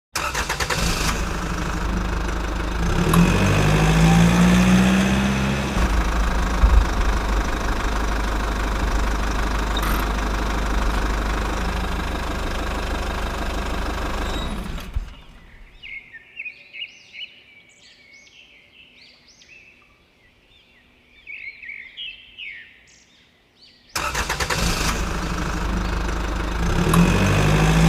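Engine running, its pitch rising as it revs about three to six seconds in, then running steadily. It stops about halfway through, leaving birds chirping for several seconds, and starts up again near the end.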